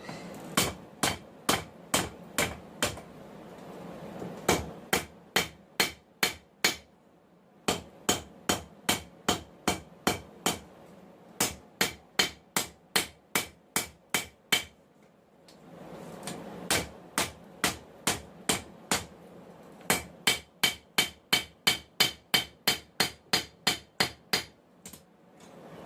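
Hand hammer striking hot 1080 high-carbon steel on an anvil while forging a knife blank, each blow with a bright ring. The blows come in runs of about two to three a second, quicker near the end, with short breaks between runs and a low steady rumble in the pauses.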